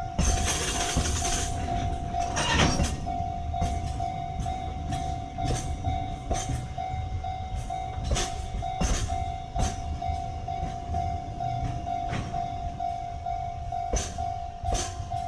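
Freight train rolling past, its wheels clacking over rail joints at irregular intervals over a low rumble. A steady high tone sounds throughout.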